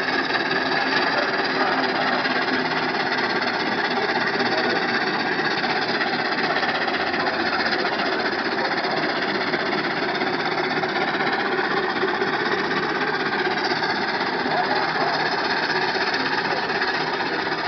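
Wallace & Stevens Advance steam roller working hard as it pulls a weighted sledge, its engine giving a steady, rapid mechanical beat.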